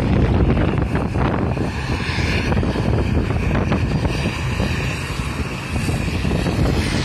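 Airliner engines passing, a whining band in the upper range that comes in about a second and a half in and fades near the end, over heavy wind buffeting the microphone.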